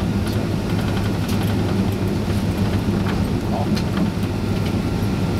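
Steady low hum of a Boeing 767-300's engines and cabin air heard inside the passenger cabin, at an even level with no spool-up, as the airliner taxis before takeoff.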